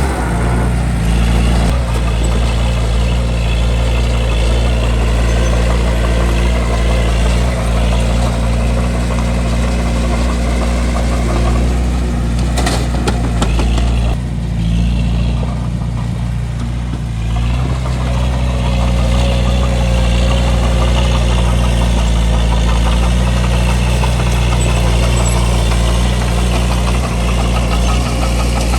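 Bulldozer diesel engine running steadily while working dirt, a deep continuous drone, with a few sharp metallic clanks about twelve seconds in and a brief easing of the engine a couple of seconds later.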